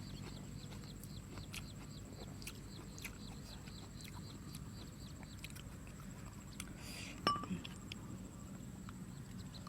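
Quiet chewing and eating of soy-sauce-pickled seafood, with small wet mouth clicks. A single clink of a utensil or dish comes about seven seconds in. A run of faint, short, high falling chirps is heard in the background during the first few seconds.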